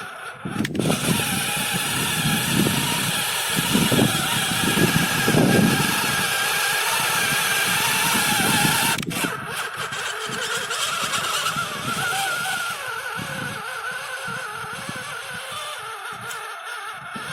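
John Deere tractor's diesel engine running loud and rough, with a rumbling, pulsing low end, then dropping abruptly about nine seconds in to a quieter, steadier run.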